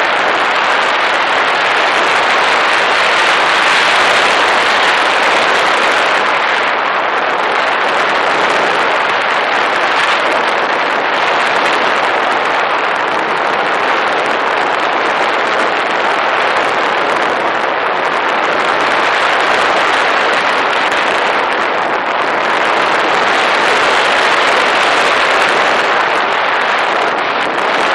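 Steady rushing of airflow over a camera carried aboard a flying model airplane, slowly swelling and easing, with no clear motor tone.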